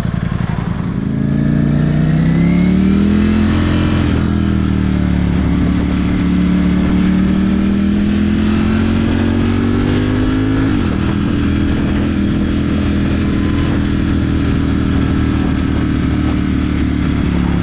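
Ducati motorcycle engine accelerating, its pitch rising and dropping sharply at two gear changes, at about four and eleven seconds in, then holding a steady cruise.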